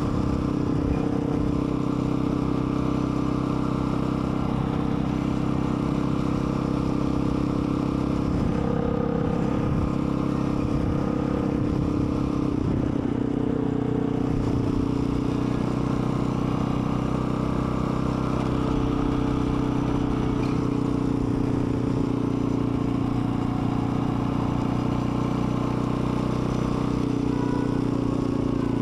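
Dirt bike engine running as the bike is ridden, a steady drone whose pitch rises and falls a little with the throttle.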